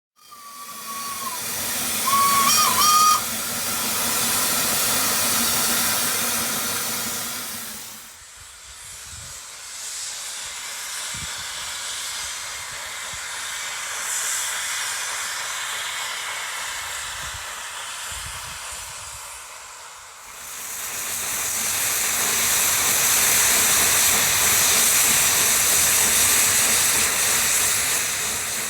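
Narrow-gauge steam locomotive sounding its whistle in the first few seconds, ending in two short loud blasts, over a steady hiss of escaping steam. The steam hiss eases off for a while, then grows loud again for the last third.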